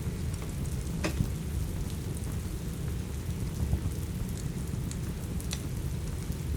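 Steady rain with a deep rumbling bed underneath, mixed with a crackling wood fire giving a few sharp pops, the clearest about a second in and again about five and a half seconds in.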